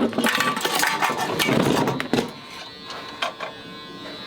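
Pull-start rope of a small mini-bike engine, with its spark plug out, yanked with rattling and scraping for about two seconds. A single knock follows, after which only a faint hum remains.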